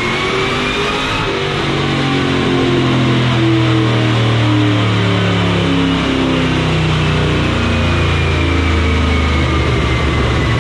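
Pontiac GTO's supercharged 427-cubic-inch V8 making a full-throttle run on a chassis dyno. A high whine climbs in pitch at the start, holds, and falls away over the last few seconds as the revs come down.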